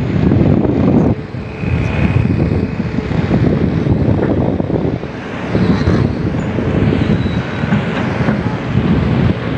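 Wind buffeting the microphone over a low, steady rumble of long-arm excavator diesel engines.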